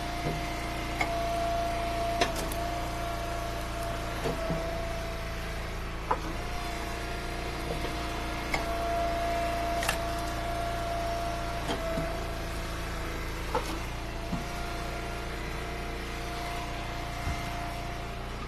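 Eastonmade hydraulic wood splitter's engine running steadily with a constant hum and whine. About ten short, sharp knocks and cracks come at irregular intervals from firewood being split and handled.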